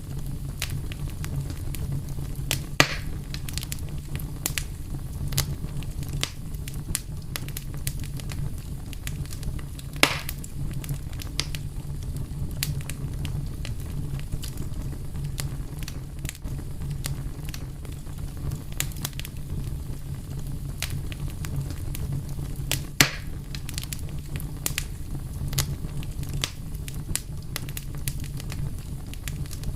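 Wood fire crackling steadily over a low rumble, with many small snaps and three louder pops spread through.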